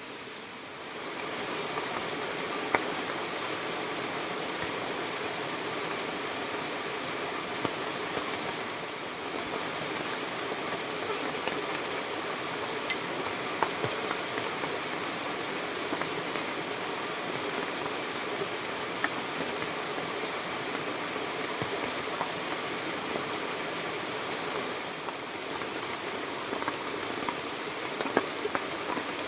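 Steady rushing water noise, an even hiss with scattered light taps and patters.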